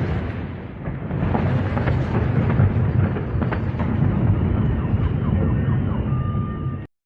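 Deep, continuous rumbling in the aftermath of the Beirut port explosion, with scattered sharp cracks. Faint alarm tones come up near the end, and the sound cuts off suddenly.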